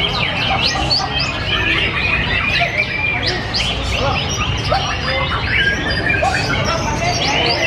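White-rumped shama (murai batu) singing a rapid, varied stream of whistles, chirps and sweeping notes, over a steady low background noise.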